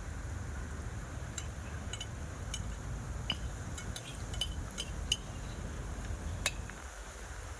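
A pottery-firing campfire: a steady low rumble with about a dozen sharp, irregular clicks and clinks, the loudest a little after five seconds in and again about six and a half seconds in.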